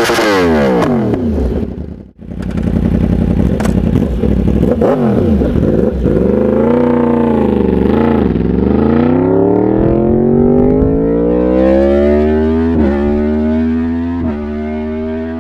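Yamaha inline-four sport bike engine revving through an aftermarket exhaust, its pitch swinging down and up, with a brief break about two seconds in. Over the second half the engine pitch climbs steadily as the bike accelerates, with a couple of short breaks near the end.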